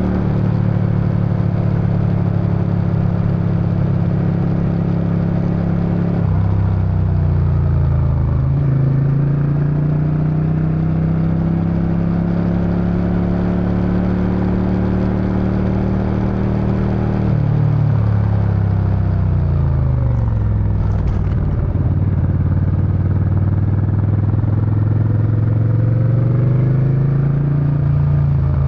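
Suzuki Intruder VS800's V-twin engine and exhaust running under way. The engine note holds steady, drops about six seconds in, climbs slowly, drops again past the middle and sags further, then picks up again near the end, rising and falling as the rider changes speed and gear.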